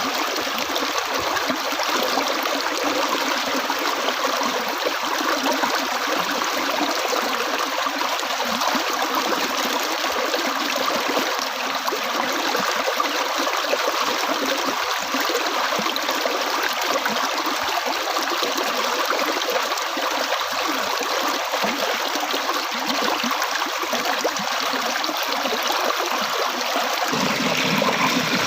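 Flowing water, a steady rushing and trickling. A little before the end it takes on a deeper undertone.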